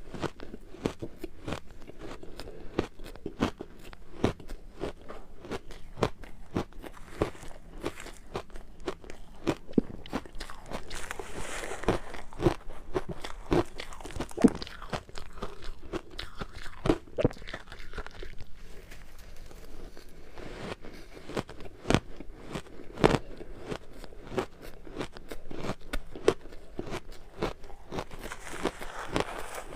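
Ice being bitten and chewed close to the microphone: a steady run of sharp crunching and cracking, with a few louder bites standing out.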